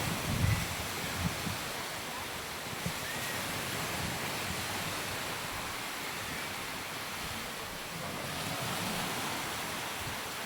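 Sea surf washing onto a sand beach as a steady wash of noise, with wind buffeting the microphone in a few low thumps near the start.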